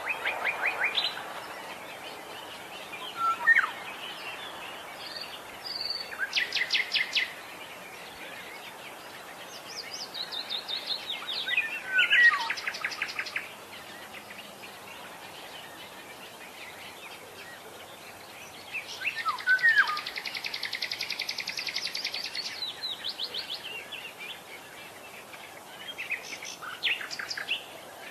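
Oriole (kepodang) calling: short whistled notes and bouts of fast rattling trills, the longest about twenty seconds in, over a steady outdoor hiss.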